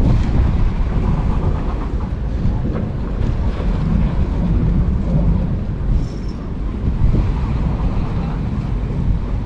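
Wind buffeting the microphone in a steady low rumble, with the wash of waves on a beach beneath it.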